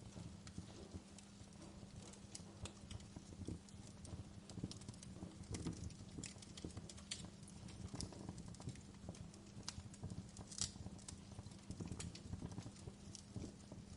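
Wood fire crackling in a fireplace: irregular snaps and pops, one sharper pop about two-thirds of the way in, over a low steady rumble of burning.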